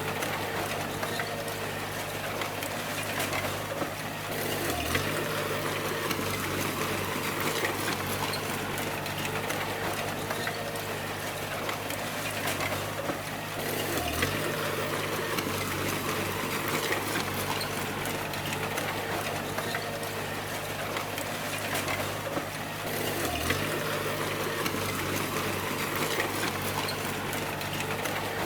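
D20 bulldozer's diesel engine running steadily under a dense rattling clatter, the engine note dipping briefly about every nine seconds.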